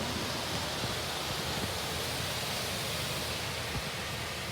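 Steady rushing hiss of water spray from an Oasis Typhoon touchless car wash gantry hitting the car, heard from inside the car; it eases slightly near the end.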